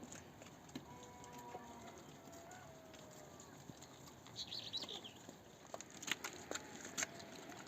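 Faint calls of farmyard fowl, with a few short high chirps about halfway through, then a run of sharp clicks or knocks near the end.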